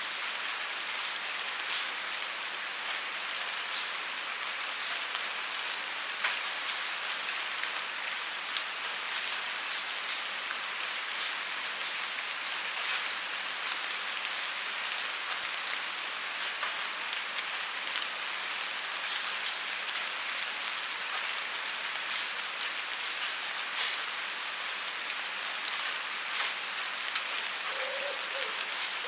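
Steady rain falling, with many separate drops ticking sharply on a surface through the hiss.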